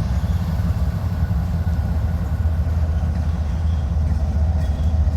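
Diesel-electric freight locomotives running, a steady low rumble.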